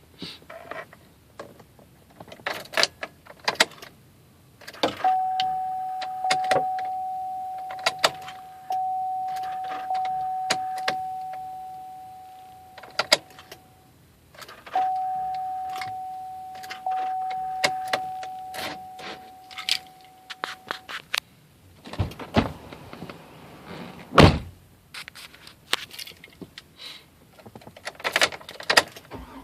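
Ignition key and switch clicking over and over in a 2004 GMC Yukon Denali that does not crank, with no engine running. A steady dashboard warning chime tone sounds in two long stretches, and two heavy thunks come near the end.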